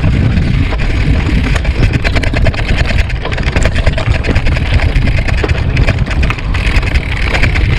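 Bicycle ride heard through the camera microphone: loud wind rumble buffeting the mic, with tyres rolling and crackling over a rough surface.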